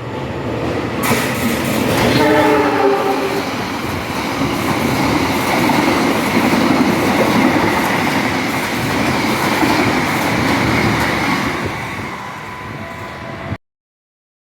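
Train passing straight through a station at speed. A short horn blast sounds about two seconds in, under a loud, steady rush of wheels and carriages rolling past, and the sound cuts off abruptly shortly before the end.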